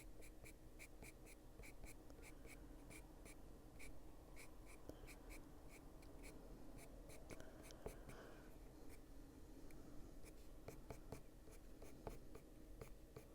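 Faint scratching of a Luminance coloured pencil on paper, in a quick run of short, even feathering strokes, about three or four a second.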